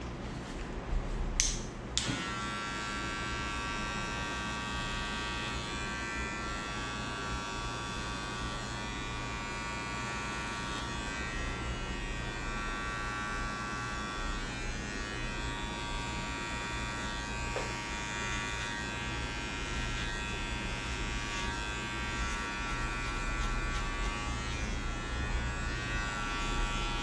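Electric hair clippers cutting a fade. Two sharp clicks come about one and two seconds in, then the clippers run steadily.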